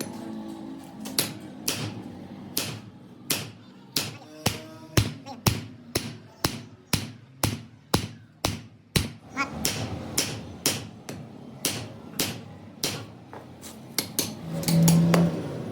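Hammer blows on metal, struck in a steady run of about two a second, as in beating or straightening a steel spanner in a repair shop.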